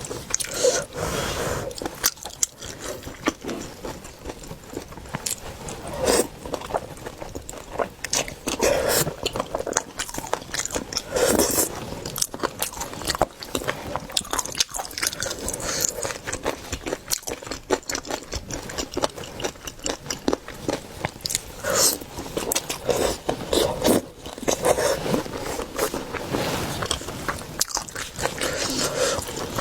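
Close-miked eating of seafood: repeated bites and chewing, with many small sharp clicks and crunches coming irregularly throughout.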